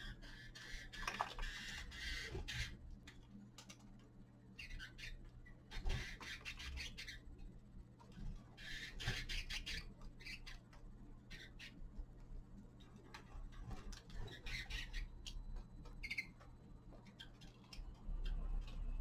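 Caged finches pecking and rummaging for seed: a busy run of small dry clicks and scratches, with a few short chirping calls in between.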